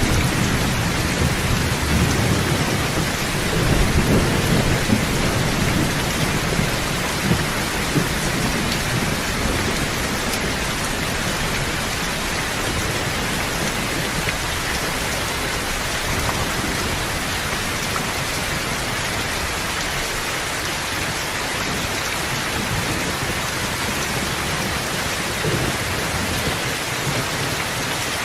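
Steady rain hissing evenly, with low thunder rolling through the first six seconds or so and then dying away, and a brief low rumble again near the end.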